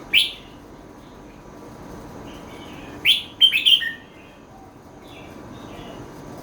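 Red-whiskered bulbul singing: one short loud note just after the start, then a quick run of several notes about three seconds in, with fainter chirping in between.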